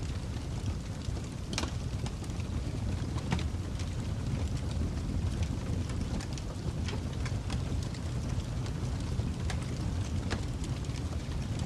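Wood fire crackling: a steady low rumble of flames with irregular sharp pops and snaps, a few louder ones standing out.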